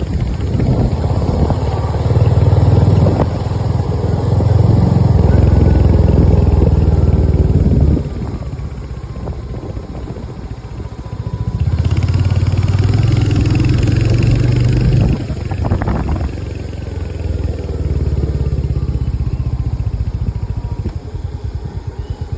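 A motor vehicle's engine running on the move, a low rumble that swells and eases off in stretches as the throttle is opened and closed, with a single knock about three-quarters of the way through.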